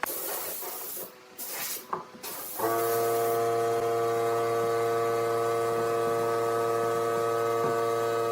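A hiss like spraying, then from about two and a half seconds in a steady machine hum with several fixed tones that does not change.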